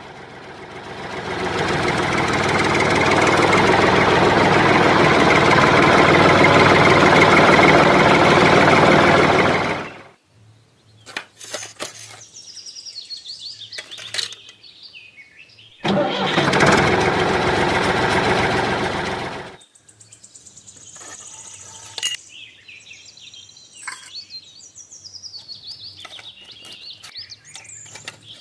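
A small motor running loudly for about ten seconds, building up at the start and then cutting off, and running again for about three seconds later on. Between the runs, faint bird chirps and a few clicks.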